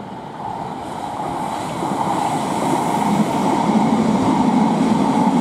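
Class 707 electric multiple unit running past on the track, a steady rush of wheels on rails that grows louder over the first few seconds and then holds.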